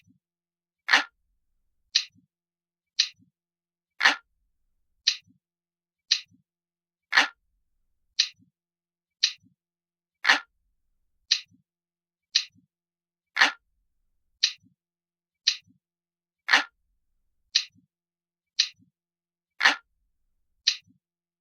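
Analog clock ticking steadily at about one tick a second, with every third tick louder and fuller.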